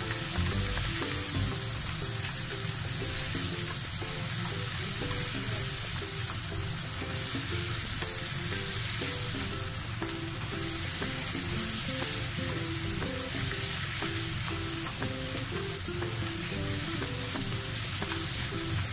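Chicken pieces, cashew nuts, onion and green chillies sizzling steadily in a hot non-stick frying pan as they are stir-fried in oyster sauce with long cooking chopsticks.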